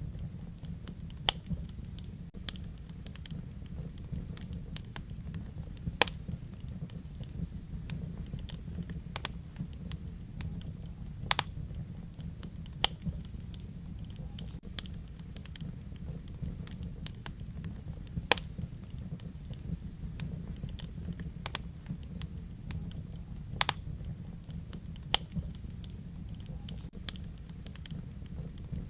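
Wood fire crackling in a fireplace: a steady low rumble of flames with scattered sharp snaps and pops, a few much louder than the rest.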